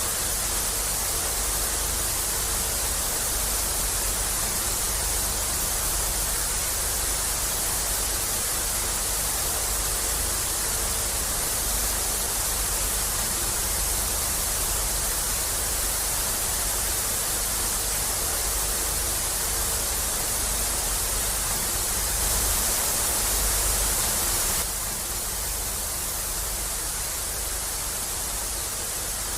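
Steady hiss-like noise with no distinct events, strongest in the treble, with a faint low steady tone beneath. It gets slightly louder about 22 seconds in and drops back a little about 25 seconds in.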